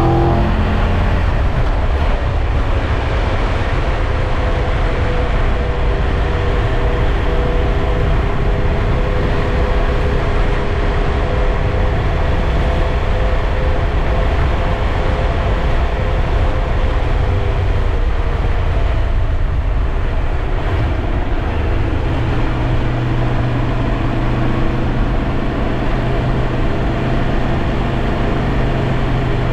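Triumph Tiger 1200 Rally Pro motorcycle's three-cylinder engine pulling at a steady cruise, with heavy wind and road noise. The engine note dips about twenty seconds in and settles lower.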